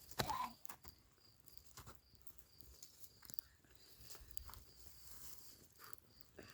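Cricket chirping steadily, a short high chirp about three times a second, with a few sharp crackles and rustles near the start.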